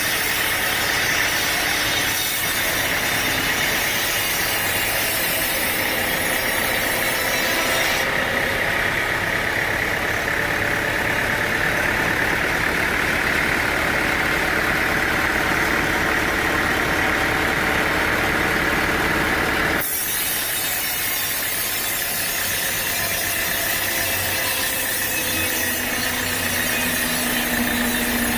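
Sawmill saw cutting through a teak log, a steady grinding rasp over the mill's running engine. The sound changes abruptly about 8 seconds in and again near 20 seconds.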